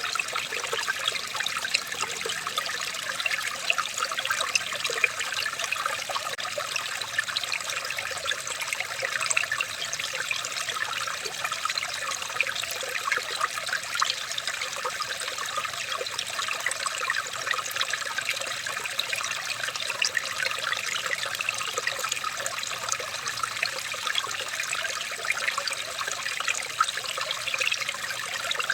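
Running water trickling steadily, dense with small splashes and gurgles.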